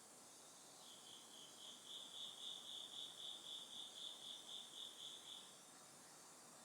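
Autumn insect calling: a run of evenly spaced high chirps, about four a second, that swells and then fades over about five seconds, over a faint steady hiss.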